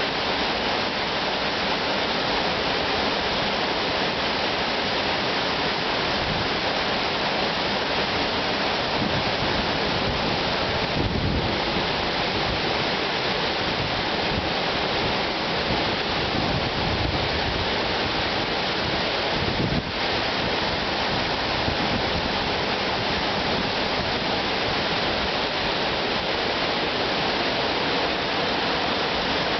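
A waterfall's water falling steadily: an even, continuous rush of water with no break.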